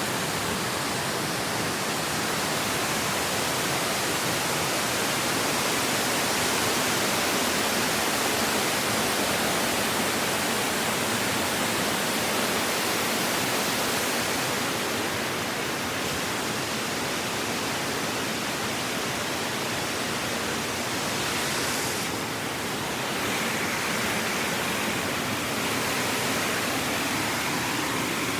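Steady rushing of running water, an even hiss with little low rumble.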